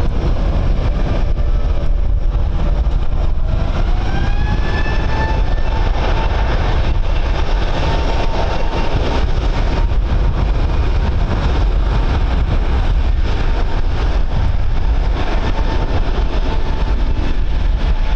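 Jet aircraft engines spooling up: a whine rises in pitch over about two seconds, then holds steady. Heavy wind rumbles on the microphone throughout.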